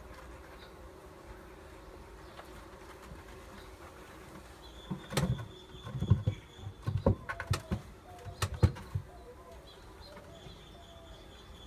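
Wooden beehive parts knocking and clunking as they are handled, a run of sharp knocks in the middle few seconds, over steady background bee buzzing and a bird calling.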